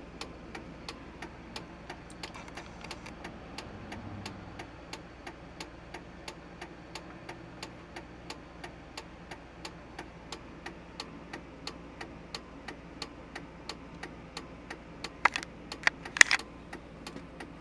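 Steady, regular clicking from under the dash of a 1999 Chevrolet Silverado, about three clicks a second; the clicking stops when the brake pedal is pressed and comes back once it is released. A few louder knocks come near the end.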